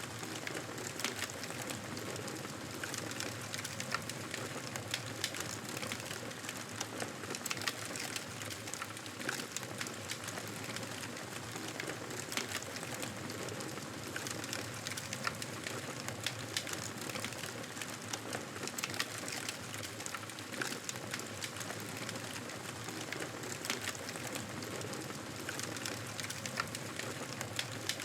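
Wood fire crackling steadily, a continuous hiss with many small sharp pops scattered throughout.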